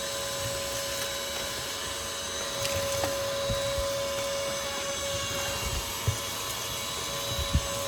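Battery-powered cordless ash vacuum running on a DeWalt 20V battery, its motor a steady whine with a rush of suction as it picks up fireplace ash. A few short low knocks sound along the way.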